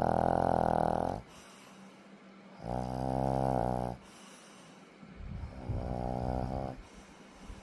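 Shih Tzu snoring in sleep: three long, buzzing snores about two and a half seconds apart, with quiet breaths between.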